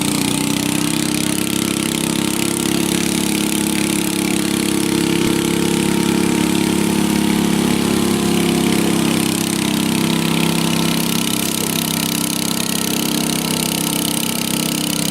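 Tractor engine running at a steady speed, its pitch holding level.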